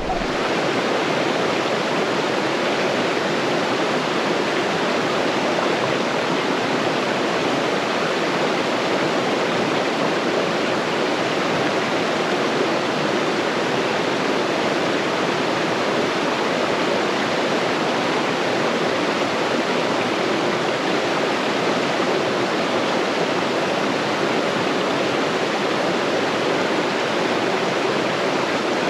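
Mountain stream rushing steadily over rocks, a continuous, even water noise with no change throughout.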